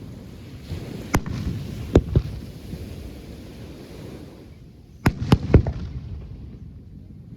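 Fireworks shells bursting: three sharp bangs in the first couple of seconds, then a quick cluster of four bangs about five seconds in, over a low rumble that fades away.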